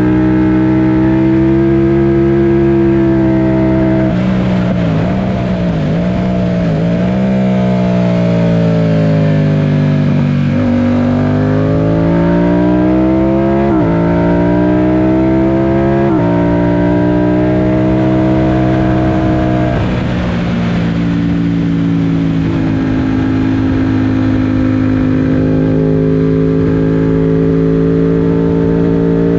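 Yamaha FZ-07's 689 cc parallel-twin engine working hard on a race track. It holds high revs, then falls with several quick dips and blips about four to seven seconds in. After that it pulls up repeatedly, the pitch dropping sharply at each upshift, and settles into a steadier, slowly rising note near the end.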